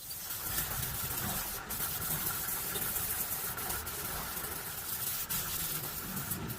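A motor running steadily, with a faint steady whine and a few sharp clicks.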